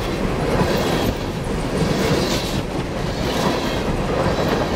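Coal train cars rolling past at close range: a steady rumble and clatter of steel wheels on the rails.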